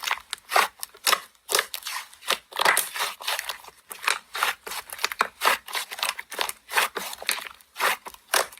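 Hands squishing and poking slime: an irregular run of crisp crunching, crackling pops, two or three a second.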